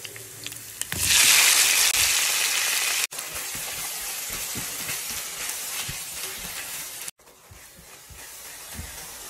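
Chopped onion and tomato hitting hot oil in a non-stick frying pan: a loud sizzle about a second in, then steady frying with the light scrape and knock of a spatula stirring. The sizzle drops away suddenly about seven seconds in and slowly builds again.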